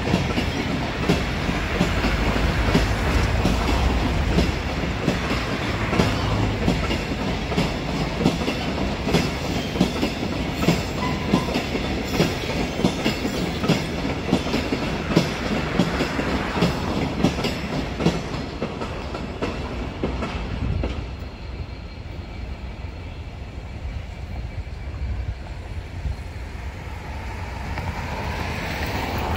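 Freight train wagons rolling past with a steady rumble and a regular clickety-clack of wheels over rail joints, fading after about two-thirds of the way. Near the end another train's running sound grows louder.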